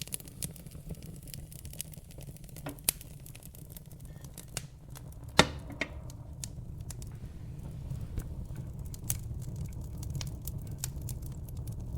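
Wood fire burning in a fireplace: logs crackling with irregular sharp pops over a steady low rumble. One loud pop comes about five and a half seconds in, and a smaller one near three seconds.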